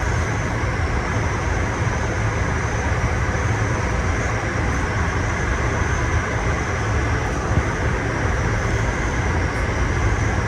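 Chilled-water air handler's belt-driven fan running steadily on its newly fitted motor: a loud, even rush of air over a low rumble, with a faint steady high whine.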